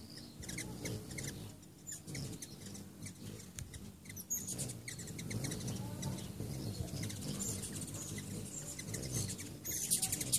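Hummingbirds chittering: many short, high chips and ticks scattered irregularly throughout.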